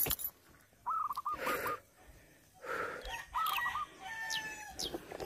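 Birds calling in the open: a short warbling call repeats about every two seconds, with high chirps and a held call between. Two bursts of rustling noise come in between the calls.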